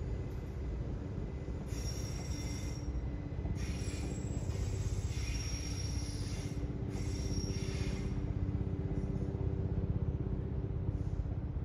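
Distant electric multiple-unit train approaching on overhead-wired track: a steady low rumble and hum, with brief high wheel squeals between about two and eight seconds in.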